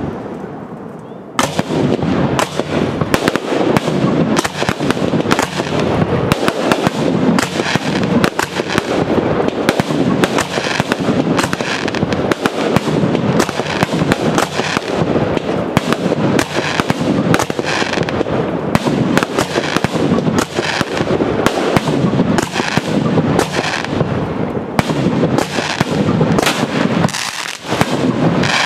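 Professional display fireworks of Italian and Spanish make, a dense barrage of aerial shells and comets launching and bursting: sharp bangs in quick succession, several a second, after a brief lull in the first second or so.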